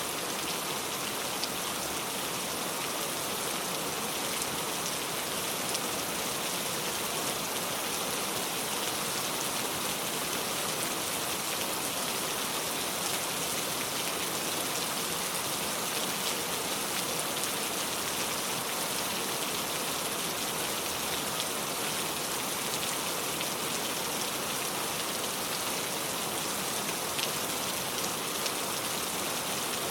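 Steady heavy rain falling on a surface, a dense even patter with scattered individual drop hits.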